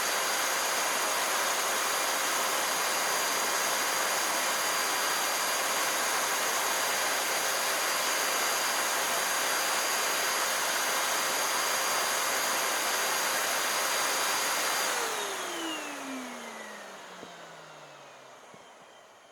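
High-speed vacuum cleaner motor switched on, spinning up in a second to a steady high whine with a rushing of air, then switched off about 15 seconds in and coasting down, its whine falling in pitch and fading over about four seconds.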